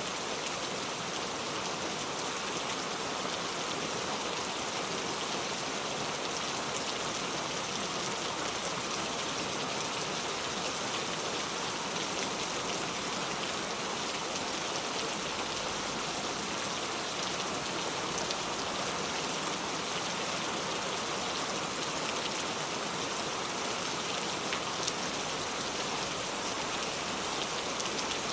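Steady rain falling, a dense even patter of drops with fine scattered ticks of individual drops hitting surfaces.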